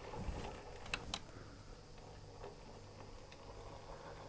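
Faint running of an N gauge Dapol Ivatt tank engine model on its track, a low steady hum with light ticking, and two sharp clicks close together about a second in.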